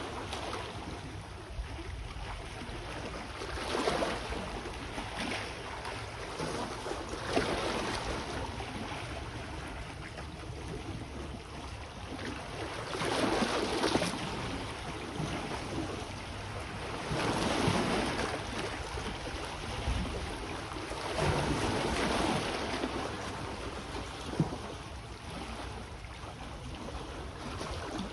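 Small sea waves washing in on the shore, swelling and falling back about every four or five seconds, with wind buffeting the microphone.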